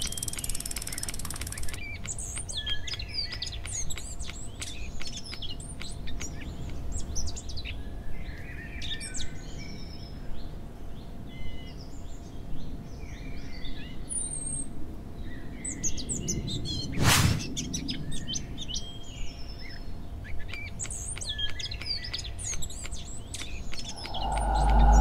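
Birds chirping and tweeting throughout, many short calls over scattered light clicks. About 17 seconds in there is one brief loud burst of noise, and near the end a low rumbling drone swells in.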